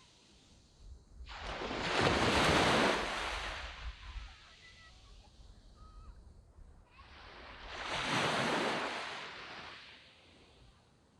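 Waves breaking and washing up a sand beach: two surges about six seconds apart, each swelling and then fading away.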